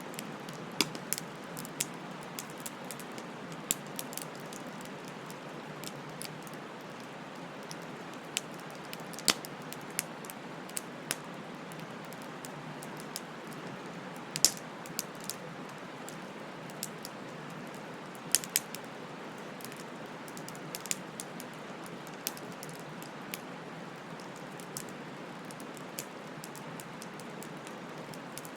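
Wood bonfire crackling: sharp irregular pops and snaps, a few much louder than the rest, over a steady soft hiss of burning.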